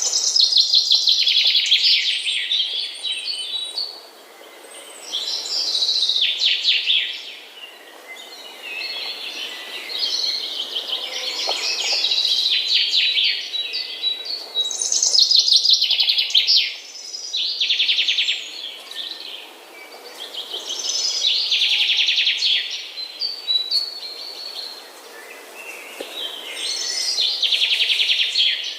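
Songbirds singing: bursts of rapid, high chirping trills, each a second or two long, repeating every few seconds.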